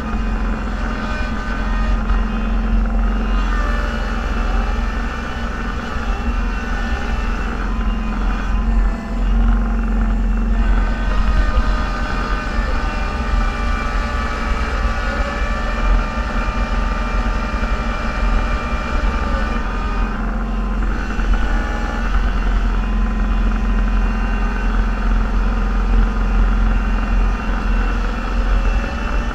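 Engine of a snowplowing vehicle running steadily, heard from inside its cab as a constant low drone with steady higher tones over it.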